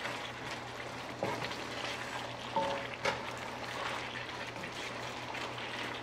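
Beef bulgogi with onions and peppers sizzling in a frying pan while being stirred with a silicone spatula, with a few light taps and scrapes.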